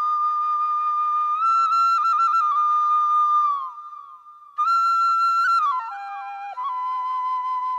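Background music: a solo flute melody of long held notes with quick trills, a short break about four seconds in, then a falling run down to lower notes.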